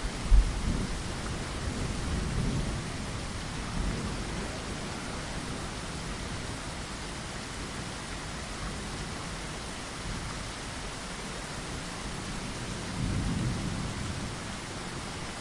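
Steady rain falling against a window, with low rumbles of thunder: a loud crack-and-rumble right at the start and another swell of rumbling near the end.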